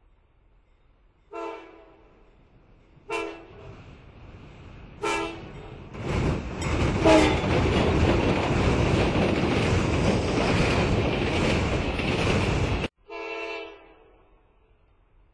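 Train horn sounding three short blasts about two seconds apart, then a loud rush of passing-train noise that cuts off suddenly, followed by one more short blast.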